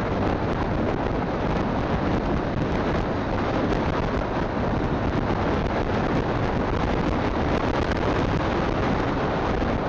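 Steady wind rushing over a phone microphone on a moving motorcycle, with engine and road noise underneath.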